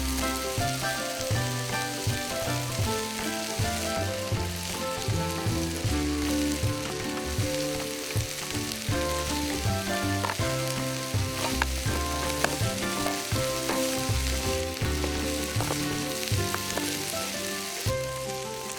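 Food sizzling as it fries in a pan, a steady crackling hiss, under background music with a moving bass line.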